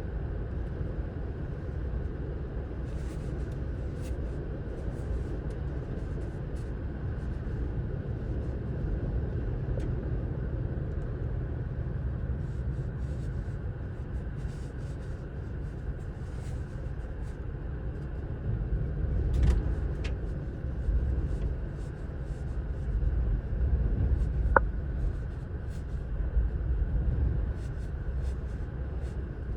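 Santa Ana wind gusting hard and rumbling on the microphone, with stronger gusts surging about two-thirds of the way through. Scattered small clicks and rattles sound through it.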